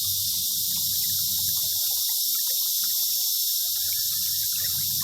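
Steady high-pitched drone of rainforest insects, a dense chorus of crickets or cicadas without a break.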